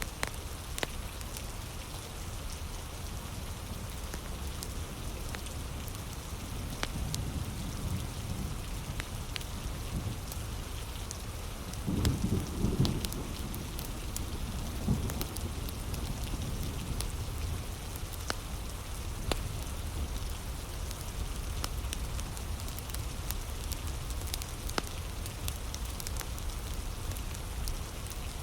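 Steady heavy rain with the scattered crackles and pops of a wood fire. A brief low rumble comes near the middle.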